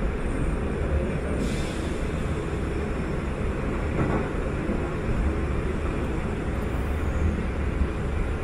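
Interior running noise of a Sanyo Electric Railway 5000 series electric train at speed: a steady low rumble of wheels on rail, with a brief hiss about a second and a half in.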